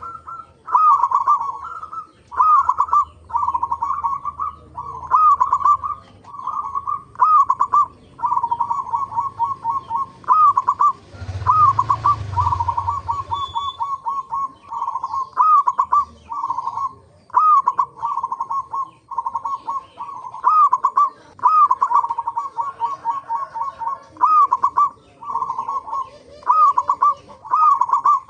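Zebra dove (perkutut) cooing, repeating short phrases about every second and a half, each a looping note followed by a quick run of staccato notes. A brief rushing noise with a low rumble comes about eleven seconds in.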